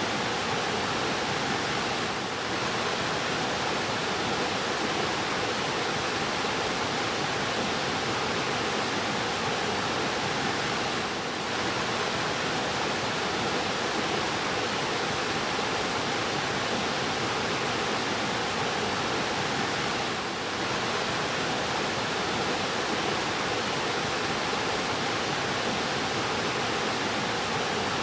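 Fast-flowing river rushing steadily, a dense unbroken wash of water noise.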